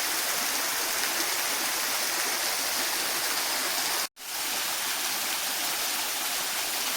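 Waterfall rushing steadily, a continuous hiss of falling water, which cuts out briefly about four seconds in and resumes.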